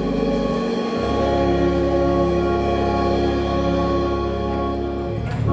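Church music closing the service: long held chords. The chord changes about a second in and is then held steady, with a short sharp sound near the end.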